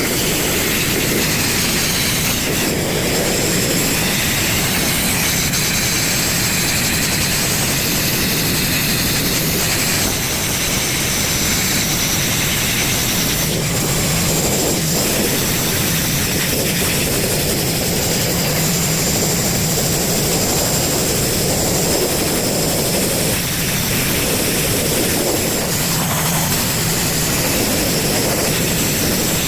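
Sandblaster blasting the rusted steel of a flatbed truck bed: a loud, steady rush of air and grit that does not let up.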